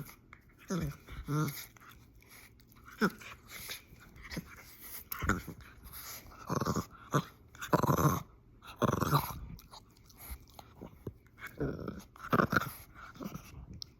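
French bulldog growling and grunting in a run of short bursts during a mock attack, the loudest and longest coming about halfway through.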